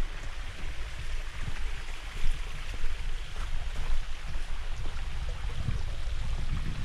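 Creek water running steadily, with gusts of wind buffeting the microphone in uneven low rumbles.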